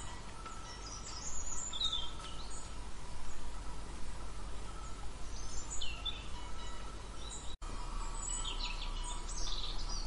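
Birds chirping in short high calls over a steady outdoor background hiss, with the sound cutting out for an instant about seven and a half seconds in.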